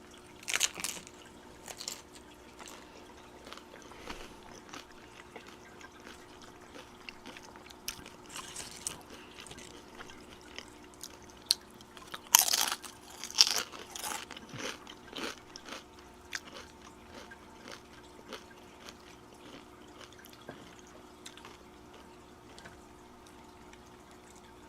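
Close-up eating sounds of tacos with nacho cheese sauce: crunching bites and chewing in irregular bursts, with the loudest crunches bunched together about halfway through.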